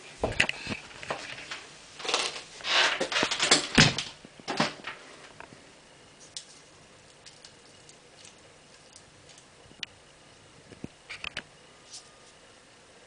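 Close handling noise: rustling and sharp knocks for the first few seconds, then a few isolated small clicks near the end.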